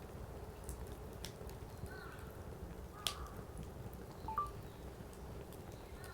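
Wood fire burning in a fire pit, with a steady low rumble of flames and scattered sharp crackles and pops of firewood, the loudest about three seconds in. A few faint short squeaks are also heard.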